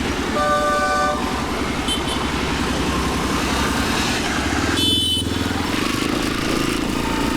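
Motorcycle engine running steadily while riding in city traffic. A vehicle horn honks once about half a second in, and a brief shrill tone sounds about five seconds in.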